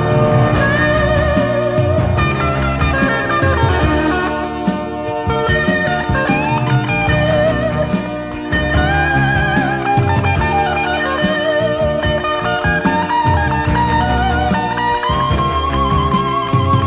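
Soft-rock instrumental break: a lead electric guitar plays a solo of long, sustained notes with vibrato and bends, over bass and drums.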